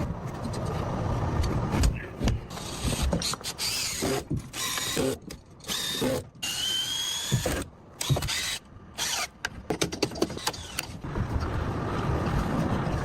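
Mechanical clatter of construction work on a log house, with tools and machinery heard in short clips broken by several brief silences. A short rising whine comes about six seconds in.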